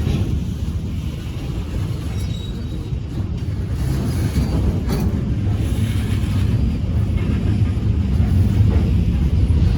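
Short freight train led by an EMD MP15DC switcher rolling by: a steady low rumble that grows slightly louder in the second half.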